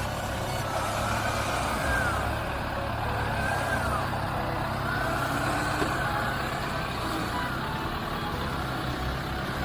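Off-road 4x4's engine running steadily at low revs while crawling over an obstacle, with a higher whine that rises and falls several times.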